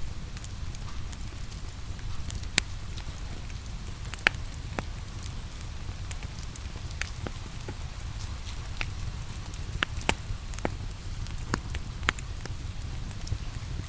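Wood fire crackling in a fireplace, with sharp, irregular pops a second or so apart over a steady low rumble, mixed with the even hiss of steady rain.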